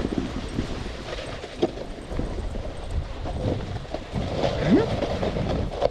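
A snowboard running over snow with a steady rumble while it is towed by two huskies, their paws giving irregular footfall thumps. A short rising whine comes a little past four seconds in.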